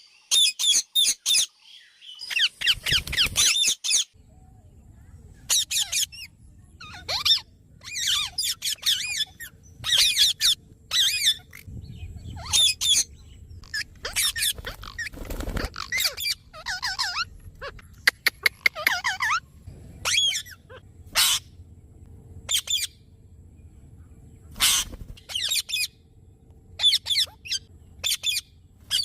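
Parrot calling: a long run of short, harsh, high-pitched squawks, often in quick clusters of two or three, with pauses of a second or more between them, over a faint low hum.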